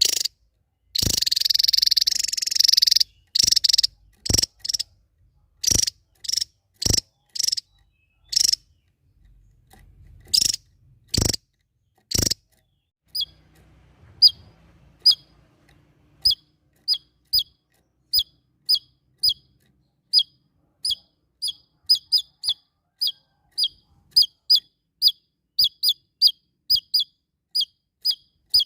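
A small songbird calling. It gives a harsh chattering burst near the start and a few loud, sharp calls, then settles into a steady string of short, falling chirps at about two a second.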